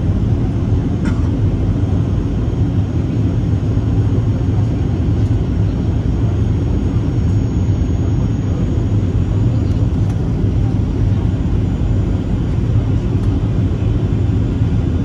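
Steady low rumble of a Boeing 737-800 jet airliner's CFM56 turbofan engines, with a faint high whine coming in about halfway.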